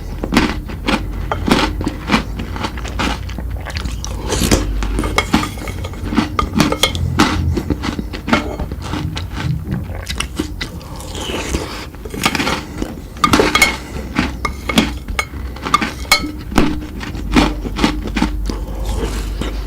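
Close-up eating sounds of chocolate sweets: irregular crunching bites and chewing, many sharp clicks in quick succession, over a steady low hum.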